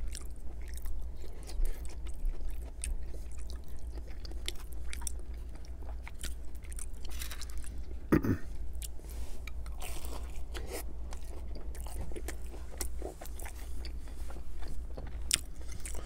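Close-miked chewing and crunching of a fried spring roll: repeated bites with crisp crackles and wet mouth sounds.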